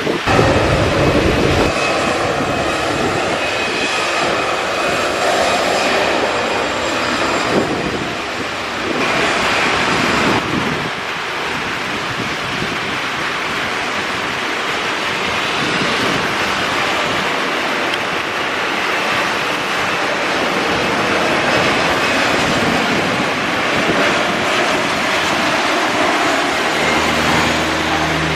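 Jet airliner engines, a loud, steady rush of noise, with thin whining tones in the first several seconds.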